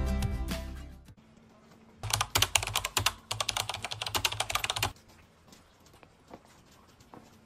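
Background music fades out in the first second. About two seconds in, rapid computer-keyboard typing clicks start and run for about three seconds before stopping abruptly.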